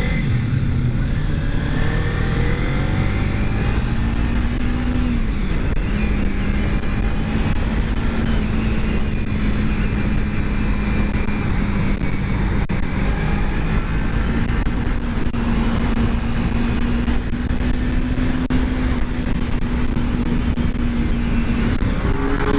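Kawasaki Ninja 300 parallel-twin engine under way: it revs up, drops in pitch at a gear change about five seconds in, then holds a steady cruising note, rising again near the end. Heavy wind rush on the helmet mic runs underneath.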